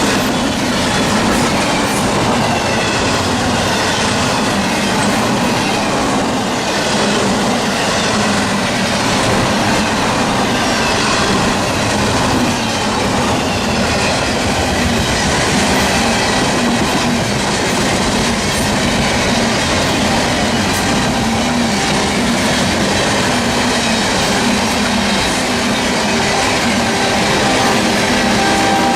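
Freight train cars rolling steadily past, steel wheels clacking over the rail joints, with a faint wheel squeal.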